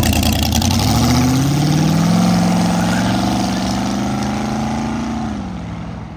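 Car engine accelerating away: its pitch climbs over the first two seconds or so, holds, then drops about five seconds in as the sound fades.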